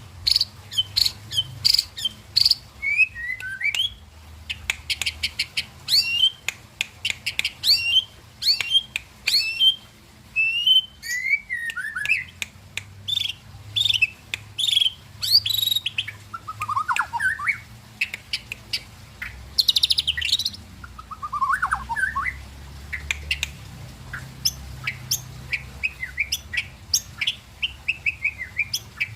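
White-rumped shama (murai batu) singing a long, varied song of quick whistles, rapid trills and sliding notes, phrase after phrase with short pauses between them.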